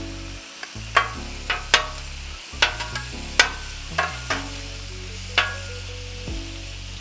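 Shrimp sizzling in butter and oil on a steel Blackstone flat-top griddle, with two metal spatulas scraping and clacking against the griddle as they turn the shrimp: about a dozen sharp clacks over the steady sizzle.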